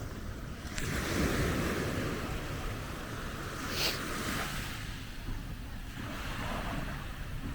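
Sea surf washing onto the shore, with wind rumbling on the microphone. A wave swells up about a second in, and there is a short hiss near the middle.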